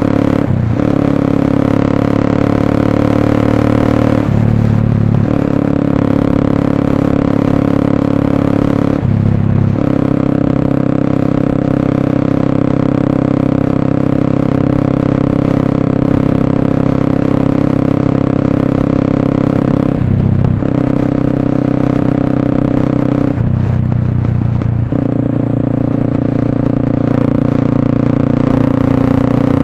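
Motorstar Cafe 400's single-cylinder engine running through an SC Project slip-on exhaust, held at a steady note while under way. The note breaks off briefly about five times and picks up again.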